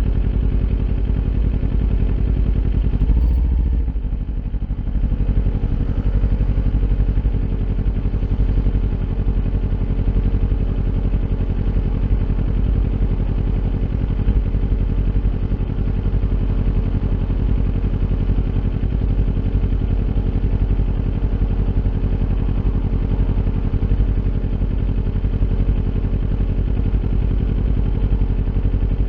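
Kawasaki Ninja 400's parallel-twin engine running through an Akrapovic aftermarket exhaust at a steady pitch. About three to four seconds in it briefly swells and then dips before settling back.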